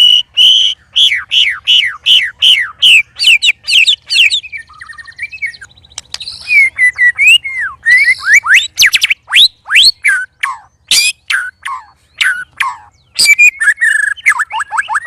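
White-rumped shama (murai batu) song, loud: rapid runs of whistled notes that slide quickly downward, three or more a second, mixed with varied slurred phrases. A faster run of short descending notes comes near the end.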